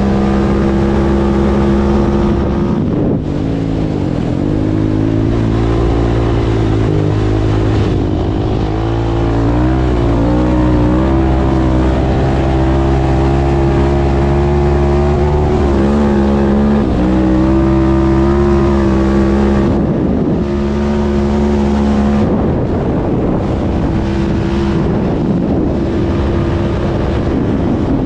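Husqvarna 701 supermoto's single-cylinder engine through an Akrapovic exhaust, running hard and revving, its pitch climbing and dropping back several times as the rider goes through the gears.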